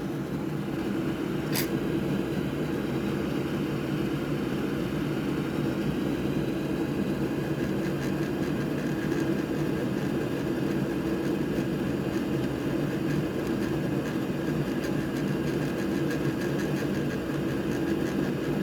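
Steady whirring hum of a fan, with a single sharp click about a second and a half in.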